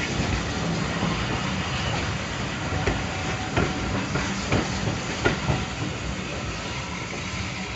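Railway passenger carriages rolling past close by: a steady rumble of wheels on track broken by sharp clicks as the wheels cross rail joints, easing slightly as the last coach goes by.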